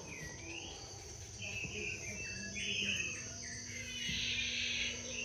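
Nature ambience: insects keep up a steady high-pitched drone while birds call over it in short chirps and quick rising and falling notes.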